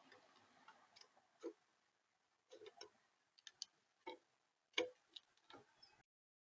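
Irregular sharp taps and clicks on a smart bird feeder, close to the feeder camera's built-in microphone, typical of a visitor pecking and shuffling at the seed; about ten taps, the loudest almost five seconds in.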